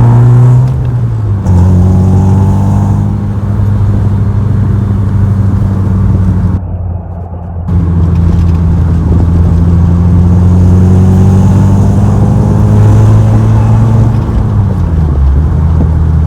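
Volkswagen Mk4 Bora driving, its engine and exhaust giving a steady low drone at an even pitch. There is a brief lull in the loudness about halfway, and the pitch drops near the end as the engine slows.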